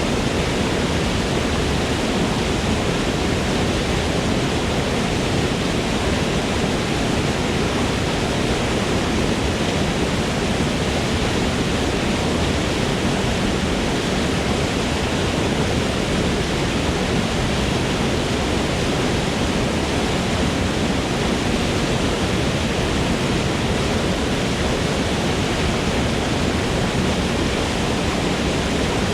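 Waterfall in a forest: water falling and splashing in a steady, unbroken rush.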